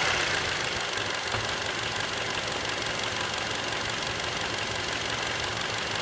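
Skoda Octavia A7's 1.8 TSI turbocharged four-cylinder petrol engine (CJSA) idling steadily, with a louder higher-pitched sound fading away right at the start and a single short tap about a second and a half in.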